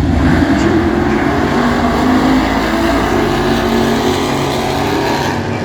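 Chevrolet Nova drag cars' engines running loud and steady on the drag strip.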